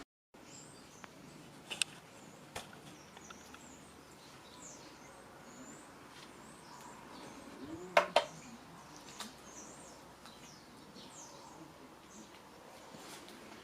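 Birds chirping faintly, with a few sharp knocks or clicks; the loudest two come in quick succession about eight seconds in.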